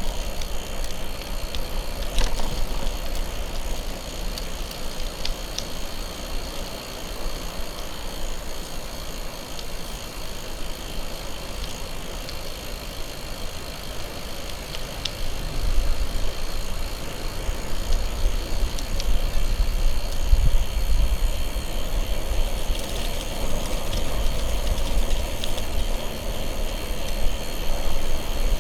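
Bicycle tyres rolling under a moving rider, with wind rumbling on the microphone in gusts that grow stronger about halfway through.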